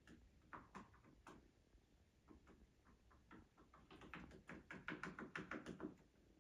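Faint light taps and clicks from a cockatiel, quickening into a close run of clicks about four seconds in.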